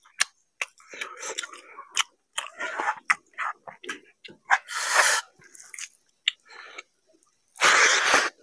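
Close-miked chewing of a mouthful of fried rice and curry, with many short wet smacks and clicks of the lips and tongue. Near the end comes the loudest sound, a broad noisy burst as another handful goes into the mouth.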